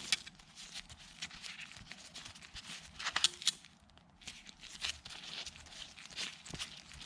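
Rustling, scraping handling noise with a few sharp clicks, from new copper brake line being bent by hand to match a coat-hanger template.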